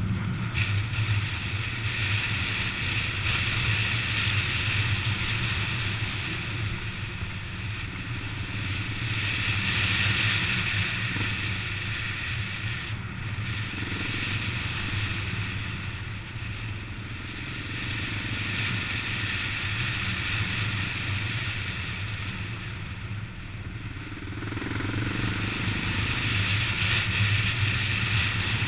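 Honda Dominator's single-cylinder four-stroke engine running steadily as the motorcycle rides along, mixed with wind and road noise on the microphone.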